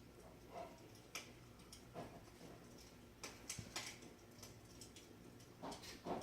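Wood fire crackling in a fireplace: faint, irregular pops and snaps, with a louder pair of pops near the end.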